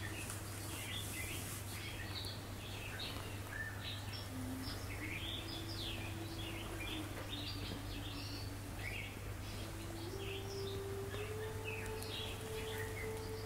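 Songbirds chirping and trilling, many short calls throughout, over a steady low hum and a soft held tone that steps to a new pitch a few times.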